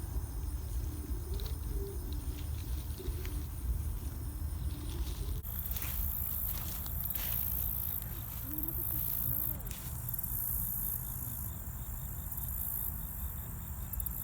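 Insects chirping and trilling, high-pitched and pulsing, louder from about five seconds in, over a steady low rumble and faint distant voices.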